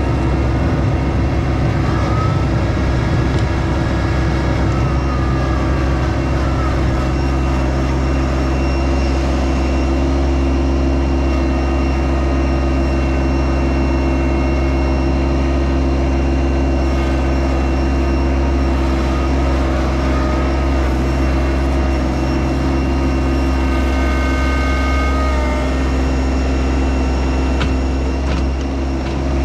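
Yanmar SA324 compact tractor's three-cylinder diesel engine running steadily at a constant speed.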